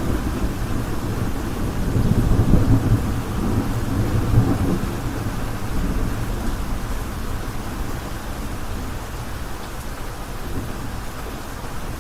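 Steady heavy rain, with a low roll of thunder swelling and fading about two to five seconds in.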